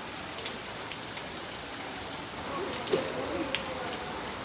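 Rain falling steadily, with scattered individual drops tapping close by. It gets a little louder from about halfway in, with a sharp tap near three seconds.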